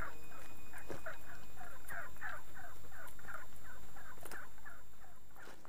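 A rapid run of short bird calls, each falling in pitch, about four or five a second, growing fainter near the end.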